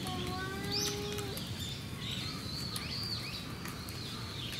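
Small birds chirping repeatedly over a low background rumble of outdoor noise. Near the start, a visitor's voice holds one long note for about a second.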